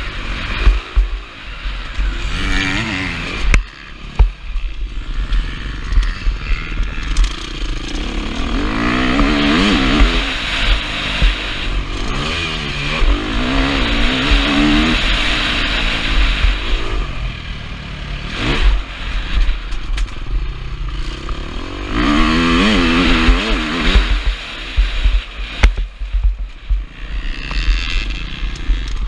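KTM 350 SX-F's single-cylinder four-stroke engine revving hard and falling back again and again as the bike accelerates and shifts. It is heard through a helmet camera, with heavy wind buffeting and clatter, and a few sharp knocks along the way.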